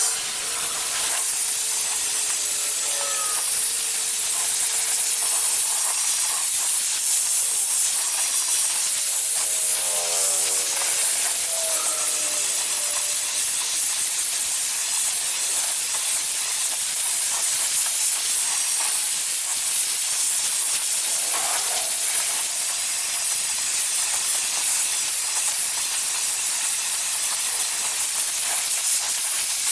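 Gas torch flame hissing steadily while it preheats a worn mower spindle housing ahead of brazing.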